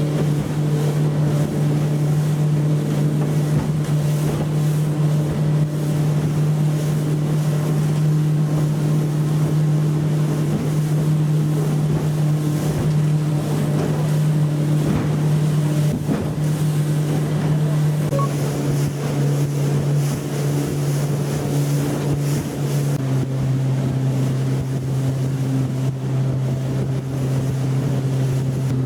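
Yamaha F90C four-stroke outboard motor running steadily at cruising speed, over the rush of wind and water. The engine note drops a little about two-thirds of the way through.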